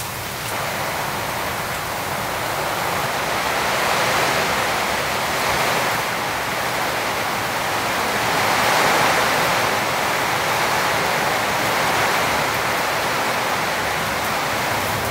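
Heavy rain pouring down on the cabin roof: a dense, steady hiss that swells and eases a little.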